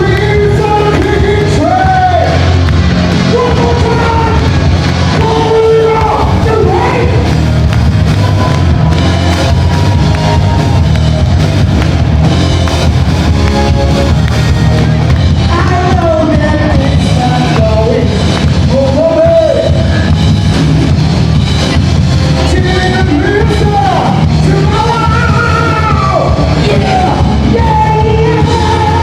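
Live band playing a rock song, a singer's voice over drums, bass and guitar, loud and steady throughout.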